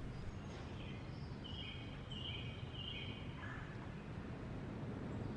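A woodland bird giving a quick series of short, high chirps from about one to three and a half seconds in, over a steady low outdoor background rumble.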